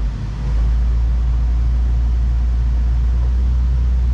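Jeep Wrangler inline-six engine brought up to a light rev in drive against the held brake, loading the engine to bring out a misfire on cylinder 4. A steady low drone rises about half a second in and holds.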